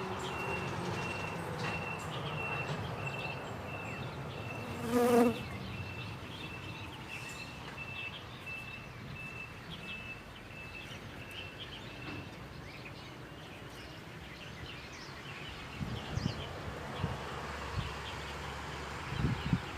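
Insects chirping outdoors: a high, even chirp repeating about twice a second for the first half, over a steady background of insect noise. About five seconds in, a short, loud pitched sound cuts in, and a few dull thumps come near the end.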